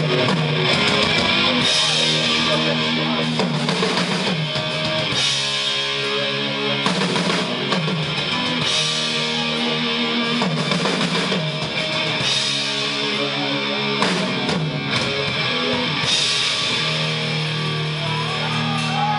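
Rock band playing live, an instrumental passage with heavy electric guitar chords and cymbal crashes about every one and a half to two seconds.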